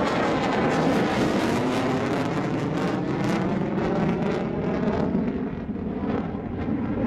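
Military fighter jet engine roar during an airshow display pass, loud and steady; the high hiss thins out about halfway through.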